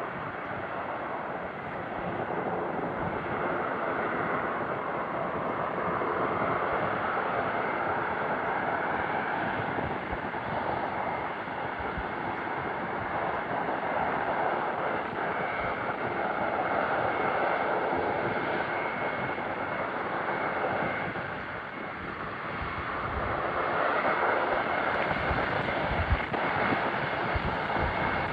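Airbus A400M Atlas's four turboprop engines running, a continuous noisy drone that swells and eases over several seconds with a thin steady high tone above it.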